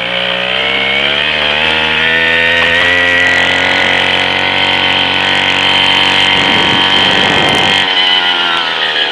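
Small gas engine of a scooter under way, revving up over the first couple of seconds and then held at high revs with a buzzing note.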